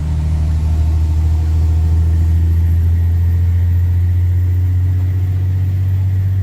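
Straight-piped Cummins C8.3 inline-six turbodiesel in a school bus, running steadily with a deep, loud exhaust drone.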